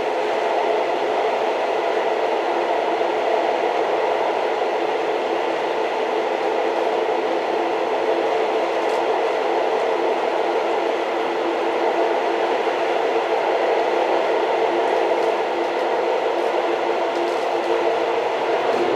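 Old train running steadily: an even, continuous noise with faint steady hums and no distinct clicks.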